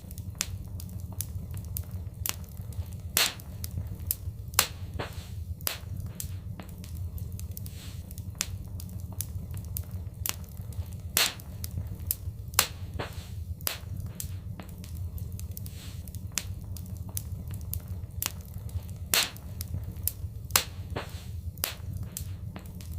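Fireplace fire crackling: irregular sharp pops and snaps, a handful of them louder, over a steady low rumble.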